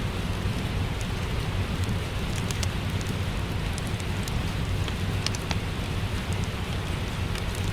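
Steady rain with a low rumble, mixed with the scattered pops and crackles of a wood fire in a fireplace.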